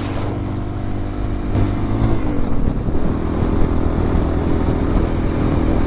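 Honda XR650L's single-cylinder four-stroke engine running under way, heard from the bike itself with wind rushing over the microphone. About two seconds in, the engine note dips in pitch and then runs louder.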